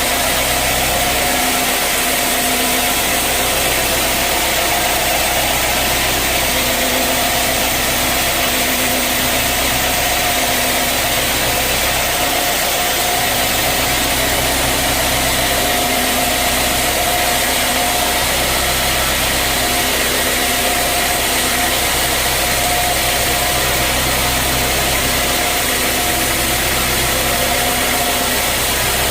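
Sawmill machinery running steadily: a constant motor hum with a steady whine over an even noise, without change in pitch or level.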